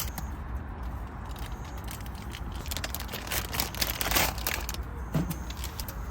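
Wood fire crackling and popping with scattered sharp snaps, growing denser for about a second around four seconds in, over a steady low rumble.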